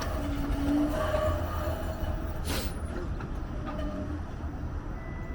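TTC Flexity Outlook streetcars running on the track as they leave the loop: a steady low rumble with a few brief, faint squealing tones from the wheels. About two and a half seconds in there is a short burst of hiss.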